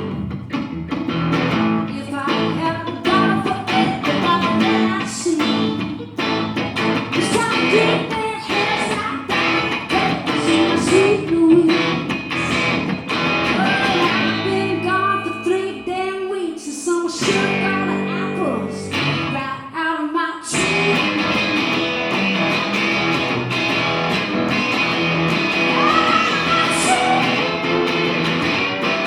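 Live rock performance: a woman singing over strummed guitars with the band. About two-thirds of the way through, the music briefly thins, then comes back fuller.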